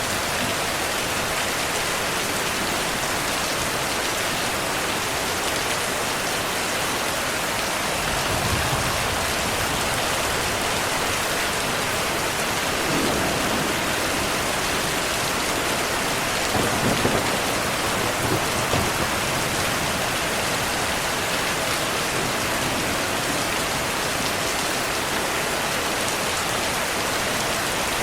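Steady rain pouring down, with low rumbles of distant thunder about 8 seconds in and again around 13 and 17 seconds.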